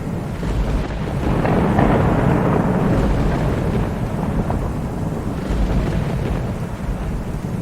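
Thunder rumbling over steady rain. The deep rumble swells louder about a second and a half in, then slowly fades back under the rain.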